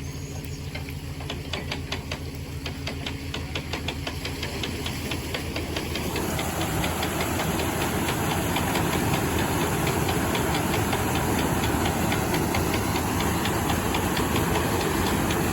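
Canal boat engine ticking over with a rapid, regular knock. About six seconds in, a steady rushing hiss builds up and stays loud over it.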